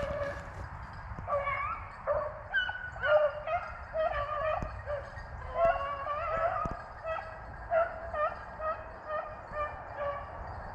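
A pack of rabbit hounds baying on the trail, many voices in overlapping yelps and bawls. It is the sound of the dogs running a rabbit's track.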